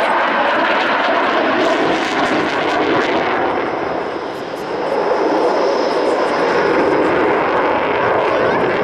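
Twin RD-33 turbofan engines of a MiG-29 fighter jet: a loud, steady rush of jet noise that dips briefly about four seconds in and then swells again, with a faint high whistle in the second half.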